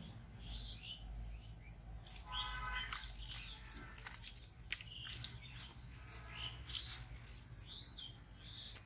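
Small birds chirping in short repeated calls, with scattered clicks and rustles.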